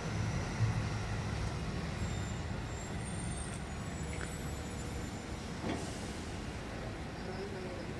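Sterling HX9500 truck's Mercedes diesel engine running with a steady low rumble, heard from inside the cab, with a small knock about half a second in.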